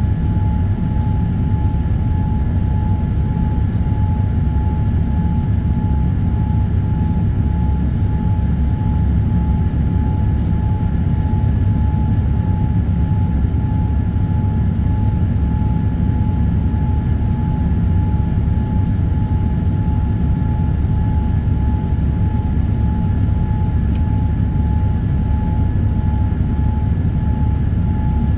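Steady cabin noise of a Boeing 787-9 airliner in flight: a loud, even low roar of engines and airflow, with a steady thin whine riding on top.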